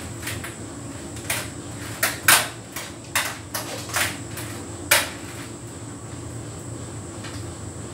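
Hotpoint heat pump tumble dryer running with a steady hum and a thin high whine, on a synthetics cycle. A run of irregular sharp knocks and clatters sounds between about one and five seconds in.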